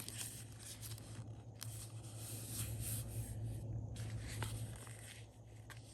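Paper rustling and scraping as planner pages, a sticker book and stickers are handled on a desk, with a couple of light taps, over a low steady hum.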